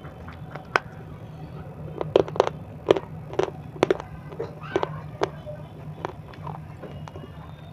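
Sharp, crisp crunches of hard white edible 'crunchy stone' pieces being bitten and chewed close to a lapel microphone. There is a single bite about three-quarters of a second in, a quick run of loud crunches between about two and four seconds in, and softer ones after. A steady low hum runs underneath.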